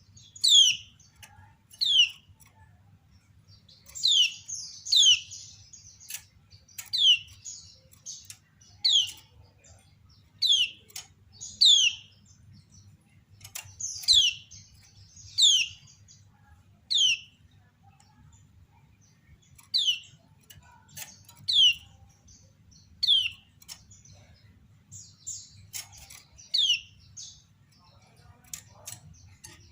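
Female kecial kuning (Lombok white-eye) giving its sharp 'ciak' call: a short, downward-sliding chirp repeated about once every second or so.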